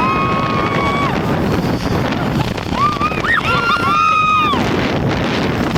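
Snow-tubing riders shrieking in long, held high-pitched cries, several overlapping near the middle, over a steady rush of wind noise.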